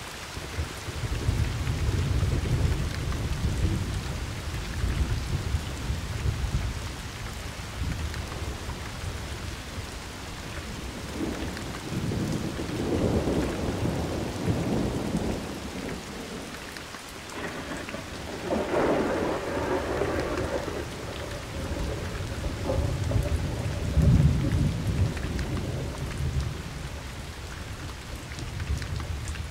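Steady rain falling, with thunder rolling and rumbling several times: long low rumbles near the start and middle, a crackling peal a bit past halfway, and a sharp loud rumble near the end.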